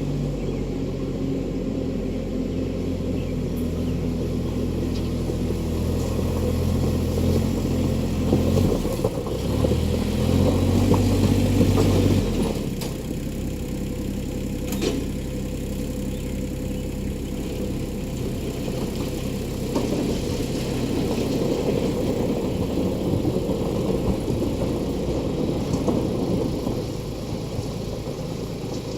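Ford E-350 van's 7.3 Powerstroke turbo-diesel V8 running steadily, then climbing in revs and getting louder for a few seconds about a third of the way in before dropping back to a lower, even run.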